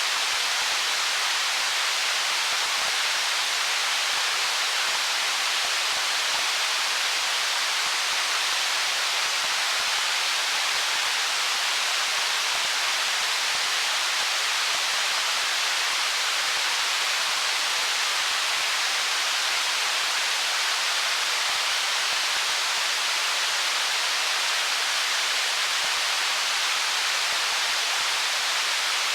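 A stream flowing over stones, a steady, even hiss of water with little low rumble.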